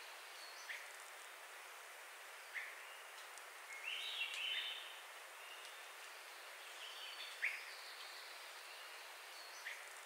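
Forest birds calling over a steady background hiss. A few short, sharp chip notes come about two seconds apart, and a brief high twittering song phrase comes about four seconds in.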